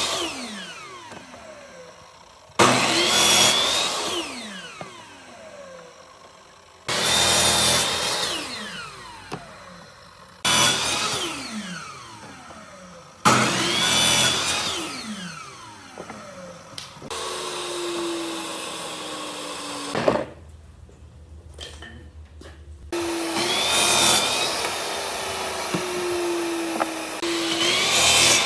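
A handheld electric power tool switched on in short bursts every three to four seconds, its motor winding down in pitch after each release. Later it runs longer and steadier, briefly stopping in between.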